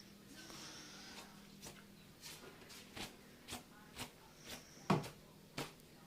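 A faint series of short, light clicks and taps, a little more than one a second, with one louder knock about five seconds in.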